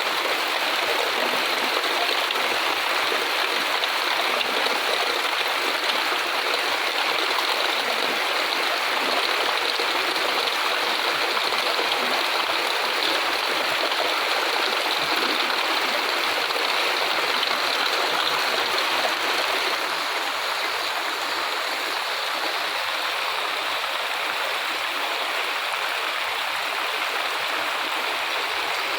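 Heavy rain falling steadily, a dense rushing hiss with no separate drops standing out, easing very slightly about two-thirds of the way through.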